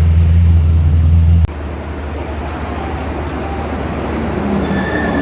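A motor vehicle engine running with a steady low hum that cuts off abruptly about a second and a half in. Quieter outdoor traffic noise follows.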